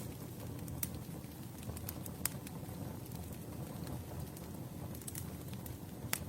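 Wood campfire burning: a steady low rumble with scattered sharp crackles and pops, the strongest just after two seconds in and near the end.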